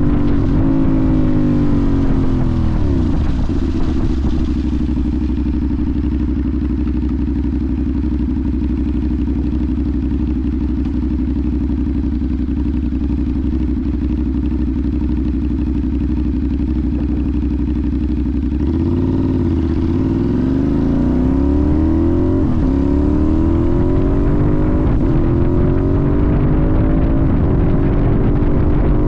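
Sportbike engine slowing down and settling to a steady low-rpm idle, as at a stop. About 19 seconds in, it pulls away and accelerates through the gears, its pitch rising and dropping back at each shift.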